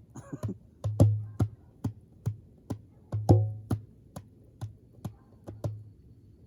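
Djembe hand drum played in a steady beat of about two strokes a second, mixing deep bass tones with sharper slaps, and stopping shortly before the end.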